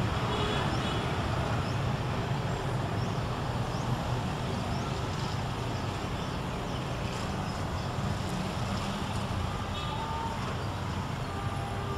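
Steady low rumble of a diesel-hauled passenger train pulling away, its coaches rolling on the rails.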